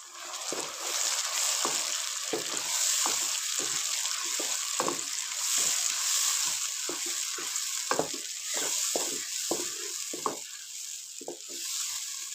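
Tomatoes and fried onions sizzling in hot ghee in a wok-style pan while a wooden spatula stirs them, with a steady hiss and many short scraping strokes of the spatula against the pan. The sizzle eases slightly near the end.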